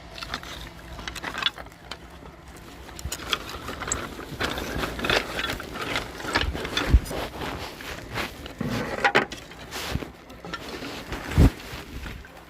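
Irregular knocking and clattering of wood being handled, with two heavier thumps, one about seven seconds in and one near the end.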